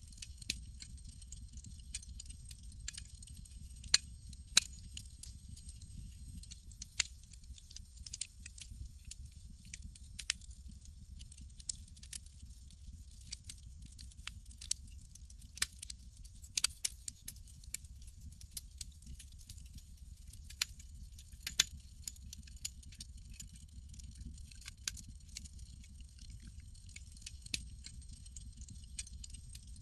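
Campfire crackling: irregular sharp snaps and ticks, with a few louder pops about four seconds in, about a third of the way through and near the end, over a steady low rumble of the burning fire.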